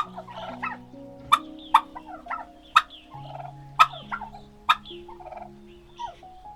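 Bird calls: sharp, short calls about a second apart at uneven spacing, with softer chattering between, over slow background music with long held notes.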